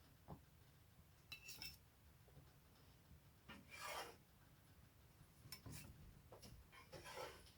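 Faint, short scrapes of a metal spatula against a frying pan, as pancakes are lifted and turned, about half a dozen times.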